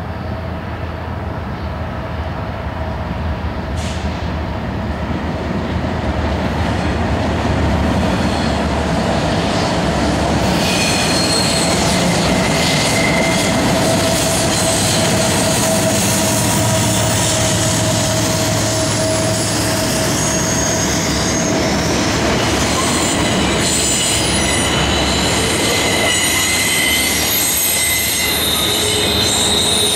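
BNSF freight train passing close by: diesel locomotives approach and go by, growing louder over the first several seconds, then double-stack intermodal well cars roll past with clickety-clack. From about a third of the way in, steel wheels squeal on the rails with high tones that come and go.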